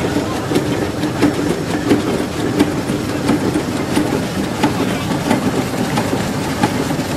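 Steam traction engine running, its exhaust beating steadily at about three beats every two seconds over a constant mechanical hum.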